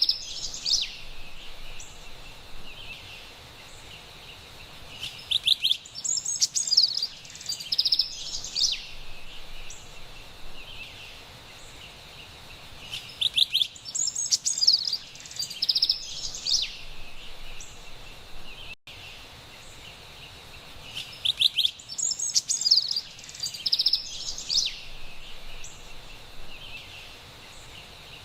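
Carolina wren singing in bursts of bright chirping and trilled phrases that come back about every eight seconds, over a steady low background rumble. The sound cuts out for an instant about two-thirds of the way through.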